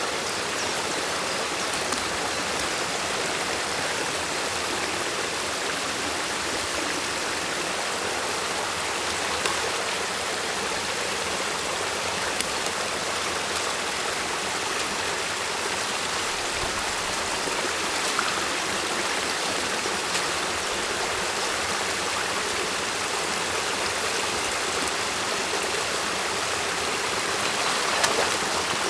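Stream water rushing steadily through a beaver dam, with a few brief knocks here and there.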